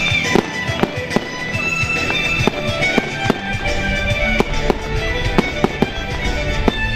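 Fireworks going off in a rapid, irregular string of sharp bangs over loud music.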